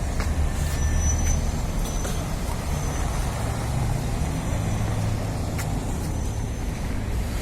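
Street traffic: a motor vehicle's engine rumbling steadily close by, with a thin high squeal coming and going.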